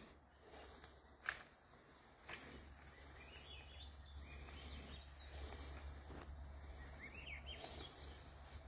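Faint outdoor ambience: birds chirping now and then over a steady low rumble, with a few sharp snaps.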